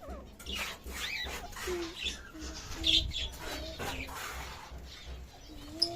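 Several birds chirping and calling: many short overlapping chirps, some sliding up or down in pitch, with a few lower short calls mixed in.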